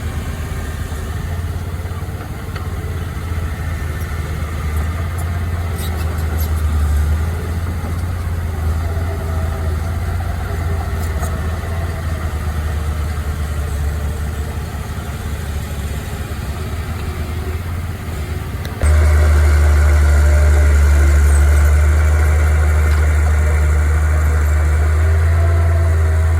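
Heavy diesel engine of earthmoving machinery running steadily with a deep rumble, becoming suddenly louder about 19 seconds in.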